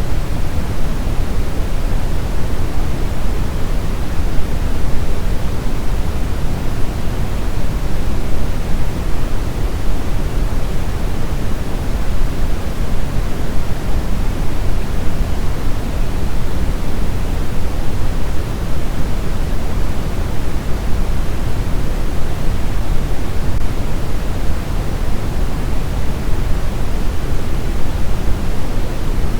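Steady brown noise: an even, unchanging rushing hiss weighted heavily toward the low end, with no events or variation.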